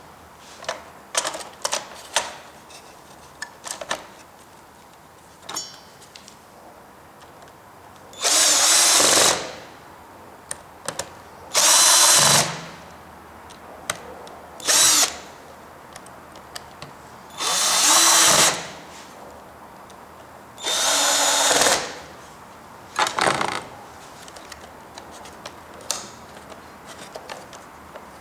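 Cordless electric screwdriver running in five short bursts on the screws of a Roomba robot vacuum, with small clicks and knocks of handling between the bursts.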